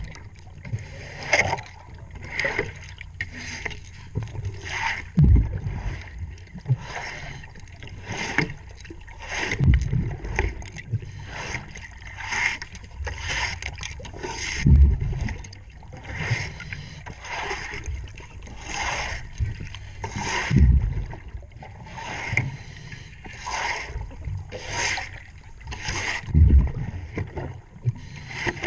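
Scuba diver's breathing heard underwater, with a low rumbling burst of exhaled bubbles every five or six seconds. Between the breaths come repeated short scraping strokes, about one to two a second, as a boat propeller is scrubbed clean in the water.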